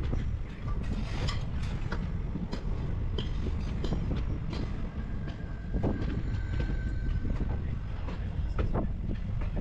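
Passenger train coach running along the track: a steady low rumble broken by irregular clicks and knocks from the wheels and running gear. A faint thin whine comes in for a few seconds in the middle.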